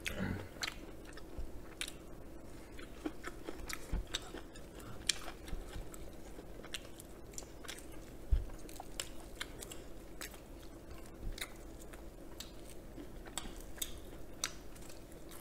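Close-miked chewing and biting of fried chicken with green onion, with scattered short crunches and mouth clicks over a faint steady hum.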